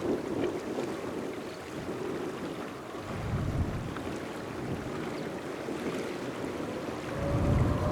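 Distant jet engine noise of a departing Boeing 777 freighter, a steady rush, with wind buffeting the microphone in low gusts; a steady engine whine emerges near the end.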